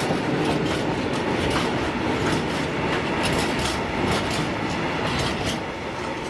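Empty covered steel wagons of a freight train rolling past, their wheels clicking over rail joints several times a second over a steady rumble. The sound starts to fade near the end as the last wagon goes by.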